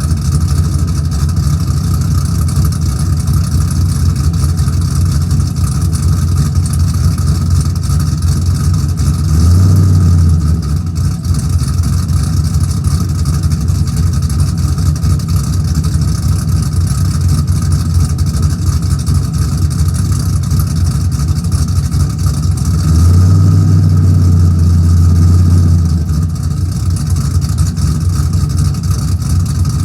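2002 Camaro SS's LS1 V8, fitted with a Stage 3 cam, long-tube headers and axle-dump exhaust, idling after a cold start with a choppy, pulsing note. It revs up briefly about a third of the way in and again for a few seconds later on.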